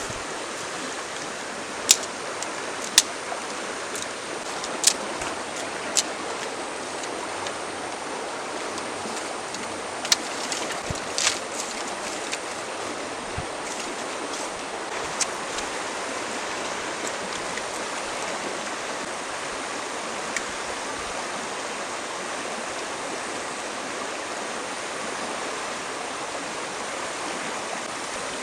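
Stream water running steadily, with several sharp clicks or knocks in the first half.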